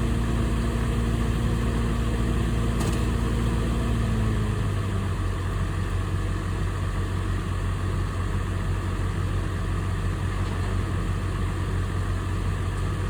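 Engine idling steadily, settling to a lower, slower idle about four and a half seconds in.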